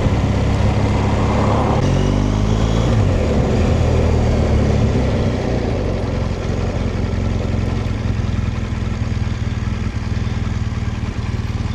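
BMW R1200GS boxer-twin engine running under way, low and steady, with wind and road noise over it; about two seconds in the engine note shifts in pitch as the revs change.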